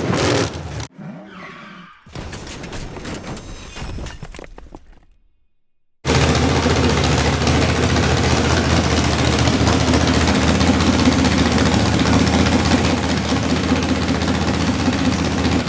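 Mixed sounds fade out to a moment of silence about six seconds in. Then comes a loud, steady wall of demolition derby car engines running, with a constant low drone.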